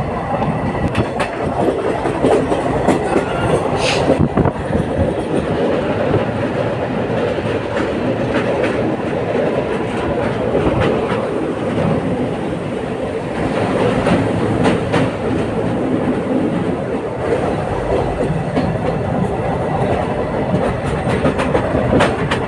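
Moving train heard from aboard: a steady rumble of wheels on the rails, with scattered clicks from the track.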